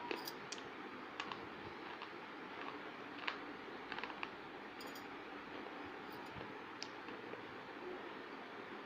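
Scattered light clicks, about one every second or so, over a steady hiss.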